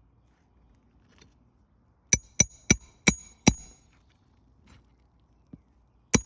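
Hammer driving roofing nails into asphalt shingles: five quick ringing strikes a little after two seconds in, then another strike just before the end.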